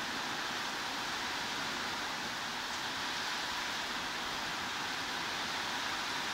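Steady heavy rain as white noise: a continuous, even hiss with no distinct drops or pauses.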